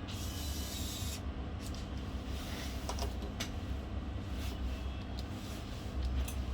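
Small clicks and scrapes of laptop parts being handled and fitted together over a steady low hum, with a brief hiss at the start lasting about a second.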